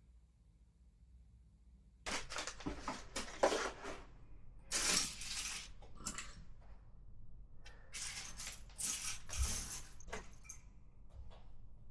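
LEGO pieces and their plastic packaging being handled: short bursts of clattering and rustling, starting about two seconds in and again about eight seconds in, with a few single clicks in between and after.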